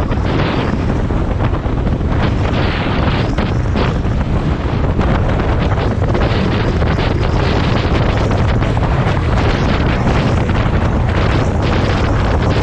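Loud, continuous wind buffeting on the microphone, a heavy low rumble with gusty rises and falls that masks everything else.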